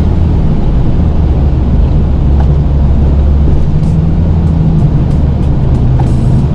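Snow-plow truck's engine running steadily as it pushes snow, a loud low drone whose pitch shifts slightly midway.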